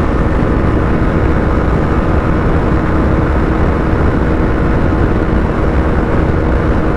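Husqvarna Vitpilen 250's single-cylinder engine held flat out at steady high revs, topping out at about 151 km/h. Its drone sits under loud, steady wind blast on the microphone.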